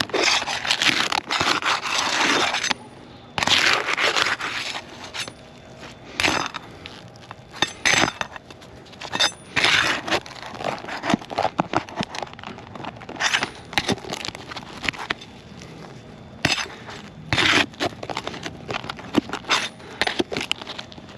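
Asphalt roof shingles being pried loose to pull their nails: repeated scraping bursts with sharp cracks and clicks. The cracking is the sign of shingles too brittle to repair, breaking as they are worked.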